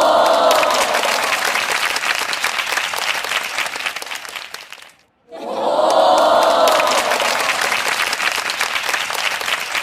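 Large crowd cheering and applauding: a shout from many voices gives way to dense clapping. The sound cuts out briefly about five seconds in, then the same cheer and clapping come again.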